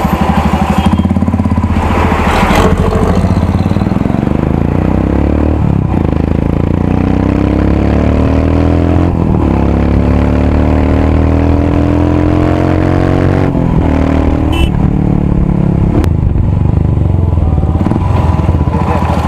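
Royal Enfield Himalayan's 411 cc single-cylinder engine running through a loud aftermarket exhaust, accelerating up through the gears. The pitch climbs and drops back at each shift, about three times, then the engine settles into steadier running.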